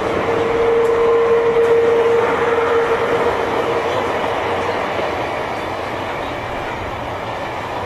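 Tobu 9000 series chopper-controlled electric train (car MoHa 9206) running, heard from inside the car: wheel and track rumble with a steady whine from the traction equipment. The whine fades out about five seconds in and the overall sound slowly drops. This car's motor sound is unusual, not the jet-like noise usual for this type.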